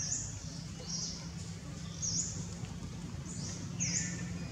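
A bird calling in short, high chirps that dip and rise again, about one a second, over a low steady hum.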